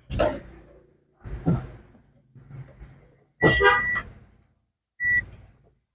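Two electronic beeps at the same high pitch: a longer one about three and a half seconds in and a short one near the end, among a few brief indistinct sounds.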